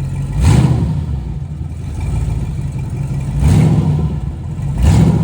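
Turbocharged 6-litre engine of a Chevrolet C10 truck running steadily, with three short surges of louder, rushing sound about half a second, three and a half seconds and five seconds in.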